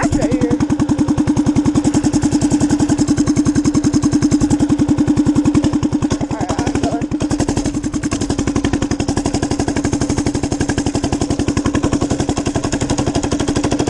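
Minibike engine running steadily at a constant speed, its firing pulses coming fast and even.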